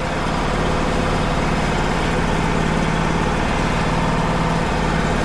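Wood-Mizer LT35 HD portable sawmill's engine idling steadily, with the blade not yet in the log.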